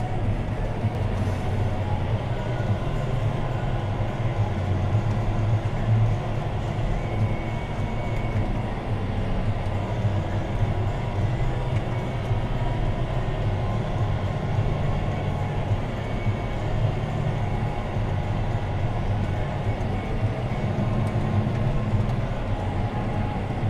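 John Deere 6215R tractor's six-cylinder diesel engine running steadily under load while pulling a plough, heard from inside the cab as a deep, even drone with a steady whine above it.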